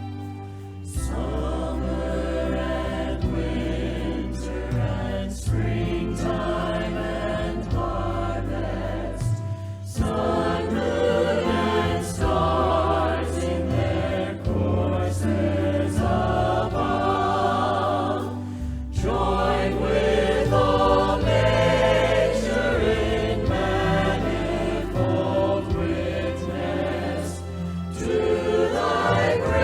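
Choir singing a church song with instrumental accompaniment over a sustained bass. The bass briefly drops out twice, about ten and nineteen seconds in.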